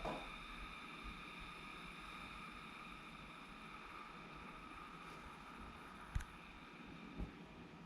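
Keurig K-Mini single-serve coffee maker brewing: a faint, steady whir with a high hum that slowly fades. Two light clicks come about six and seven seconds in.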